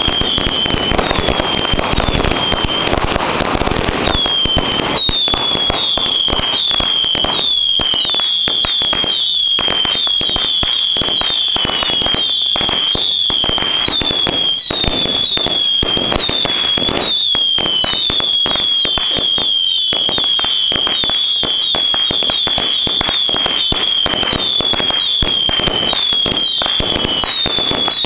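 Consumer aerial fireworks going off in a rapid string of pops and crackles, heaviest in the first few seconds. Short high falling whistles repeat about twice a second over the crackling.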